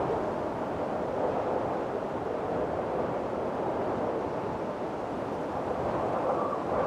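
Windstorm: strong wind blowing in a steady rush, with a faint whistle that comes and goes.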